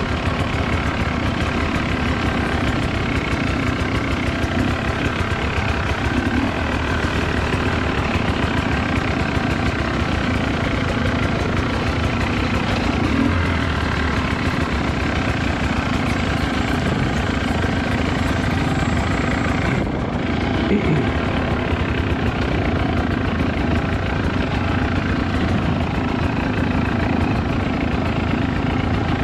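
Two-stroke dirt bike engine running steadily as the bike is ridden along a trail.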